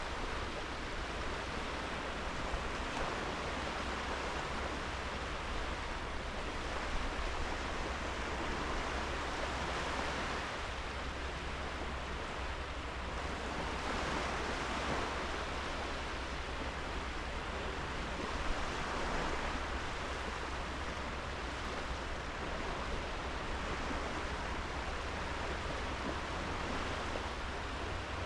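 Sea waves washing onto a sandy beach: a steady hiss of surf that swells gently every few seconds as small waves break, over a low steady rumble.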